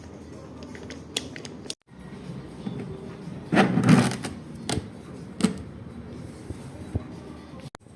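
Scattered clicks and knocks of tools and parts being handled, with one louder clatter about three and a half seconds in.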